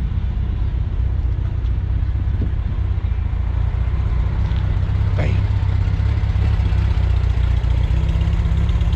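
A vehicle engine running steadily, with a low, even rumble.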